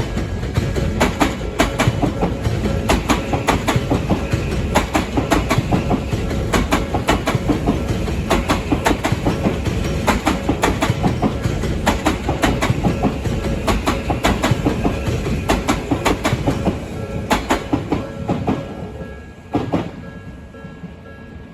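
Train passing over a level crossing, its wheels clattering over the rail joints in a long run of paired clicks that thins out near the end as the last cars go by.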